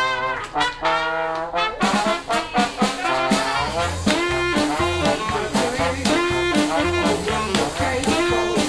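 Live jazz band with trombone and trumpet: held horn notes open the tune, then about two seconds in the full band comes in with drums and a steady walking bass.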